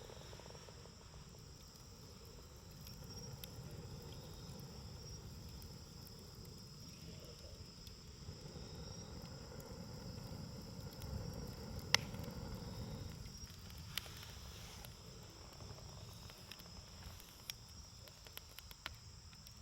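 Wood campfire burning with a low rumble and a few sharp crackling pops, the loudest about halfway through. Crickets chirp steadily throughout.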